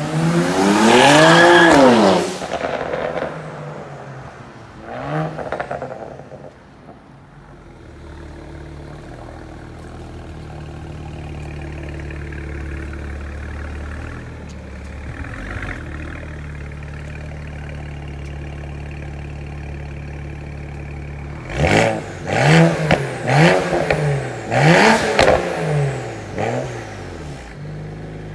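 BMW E90 335i's turbocharged straight-six: a loud rev that climbs and falls away as the car pulls up, a short blip about five seconds in, then a steady idle, and a quick run of about five sharp throttle blips near the end before it settles back to idle.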